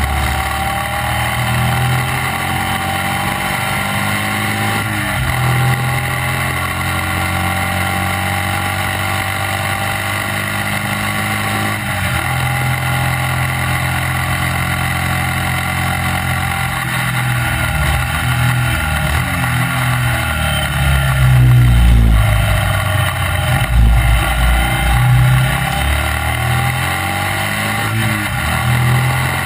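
Classic racing sidecar outfit's engine running hard at race speed, its pitch climbing as it pulls, with gear changes about five and twelve seconds in and several in quick succession about two-thirds of the way through, where it is loudest.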